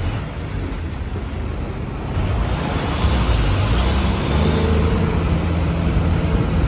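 Motor vehicle engine running with road noise, louder from about two seconds in.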